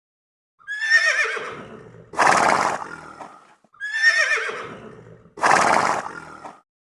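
A horse whinnying twice. Each whinny is a high, quavering call that falls in pitch, followed by a harsher, lower part.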